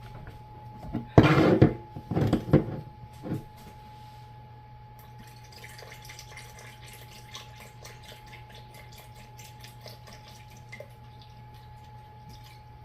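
Containers knocked and set down on a counter, three loud clatters in the first few seconds. Then liquid, rice vinegar, trickles and drips into a measuring cup in a faint, steady patter.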